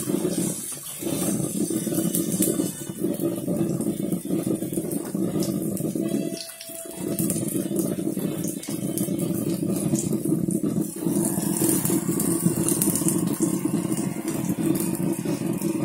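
Zucchini pancake batter frying in hot oil in a nonstick frying pan: a steady sizzle with fine crackles over a low rushing noise that dips briefly a few times.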